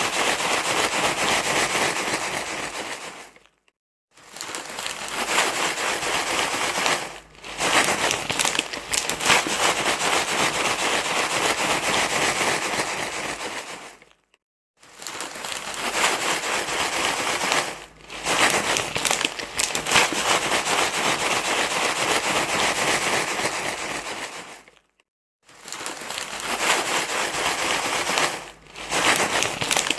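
Continuous crinkling, rustling noise used as a baby-soothing sound, in long stretches broken by short silences three times, roughly every ten seconds, with a few briefer dips between.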